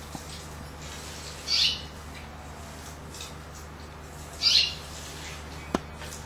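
Canary giving two short, loud chirps about three seconds apart, followed by a single sharp click near the end.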